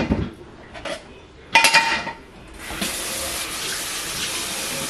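Dishes clink and knock together, then a kitchen tap is turned on about two and a half seconds in and water runs steadily into the sink.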